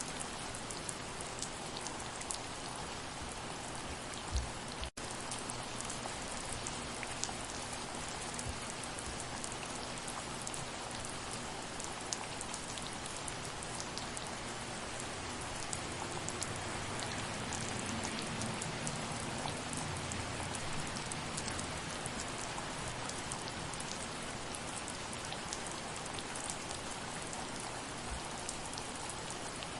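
Steady soft rain: an even hiss full of small drop taps, with a brief dip where the sound cuts out for a moment about five seconds in.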